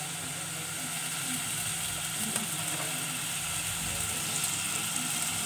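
Halved button mushrooms frying in freshly added oil in an aluminium pot, a steady sizzle that grows slightly louder.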